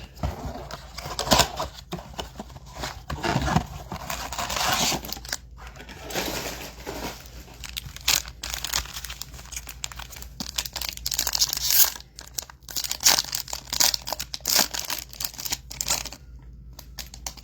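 Foil trading-card pack wrappers and blaster-box packaging being torn open and crinkled, an irregular run of rustling and crackling that thins out near the end.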